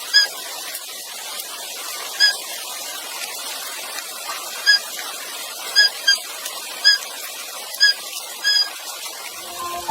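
Steady rain hiss with about eight short, high squeaking chirps scattered through it. Music begins right at the end.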